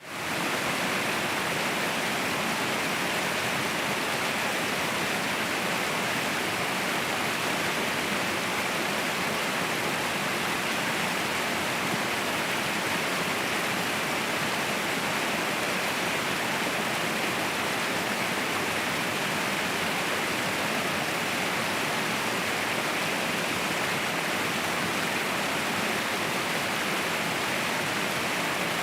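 Waterfall: a steady, unbroken rush of falling water that fades in at the start and holds level throughout.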